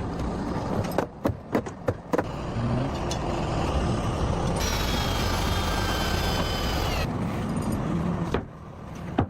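Several sharp knocks, then a steady motor noise with a faint high whine for a few seconds in the middle, which fades out near the end.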